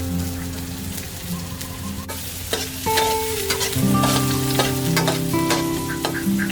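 Food sizzling as it fries in a pan, with a utensil clicking and scraping against the pan as it is stirred, over soft background music.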